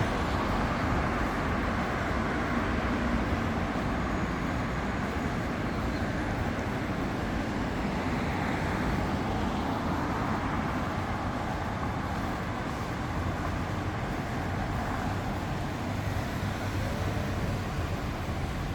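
Steady city street traffic noise: a continuous wash of cars and other vehicles running along a busy road, with no single event standing out.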